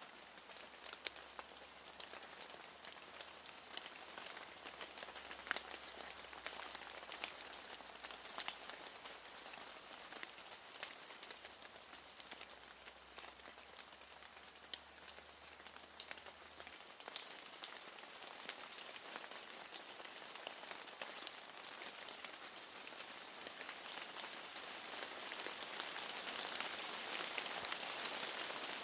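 Steady rain falling, an even hiss scattered with many small drop ticks. It grows gradually louder over the last ten seconds or so.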